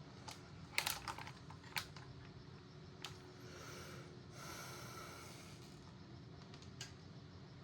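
Faint clicks and taps of small metal and plastic parts being handled, with a cluster about a second in, and two brief rustles around the middle.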